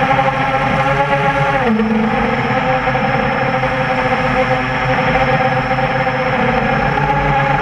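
Four brushless motors of a quadcopter (Tiger Motor MT-2212 1100kv) spinning 8-inch propellers, a steady multi-tone whine with propeller wash. The pitch dips briefly a little under two seconds in and again right at the end as the throttle is eased and opened again.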